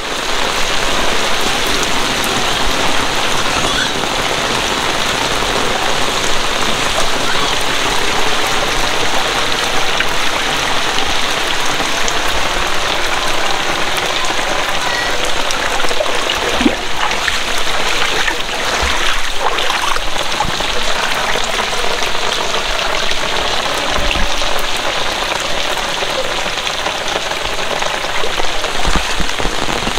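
Heavy rain pouring steadily and splattering on hard surfaces, a dense, even hiss with a few knocks and low thumps through it.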